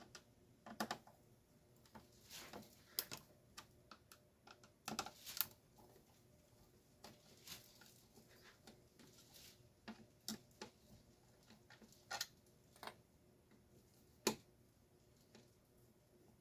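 Scattered, irregular clicks and light knocks of small parts and hand tools being handled while a garage door opener's gearbox is taken apart.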